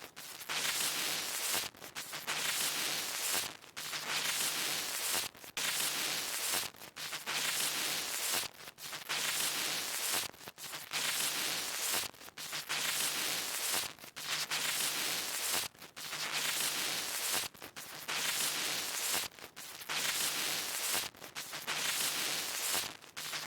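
Electronic static hiss from a broken-screen sound effect, cutting out briefly about every two seconds, over a faint low hum.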